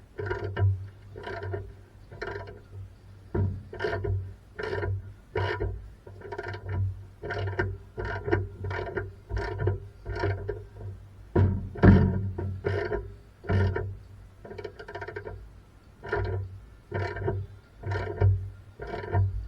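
A hand tool worked back and forth on a metal suspension part, about one and a half to two strokes a second, each stroke giving a ringing, squeaky scrape; one stroke near the middle is louder.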